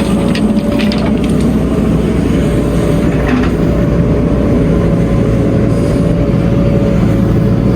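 Heavy diesel machinery running steadily under load, with a constant high whine over the low engine rumble and a few light knocks in the first second and a half.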